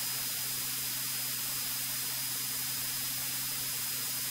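Steady electronic hiss with a thin, faint high whine and a low hum under it: a recording's noise floor with no engine or cockpit sound.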